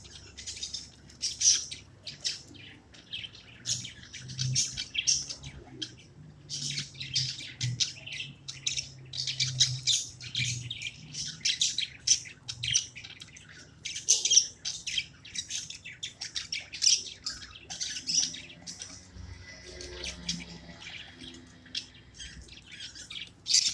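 Budgerigars chirping and chattering in quick runs of short, high chirps, with brief pauses between runs.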